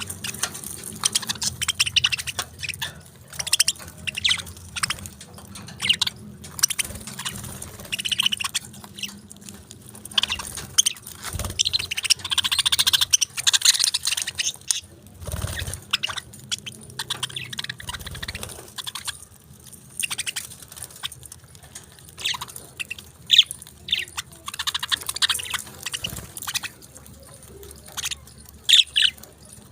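Pet parakeets chirping: a steady stream of many short, high calls, with a few soft low thumps along the way.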